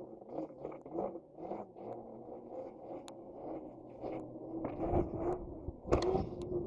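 Dirt bike engine running, heard from a helmet-mounted camera, its pitch shifting a little. Scattered clicks sound throughout, with two louder knocks about five and six seconds in.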